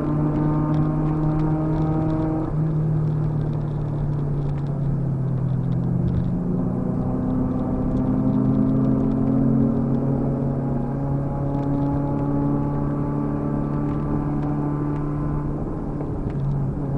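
Car engine droning inside the cabin, its note shifting up and down in steps with throttle and gears, the higher tones thinning out about two and a half seconds in.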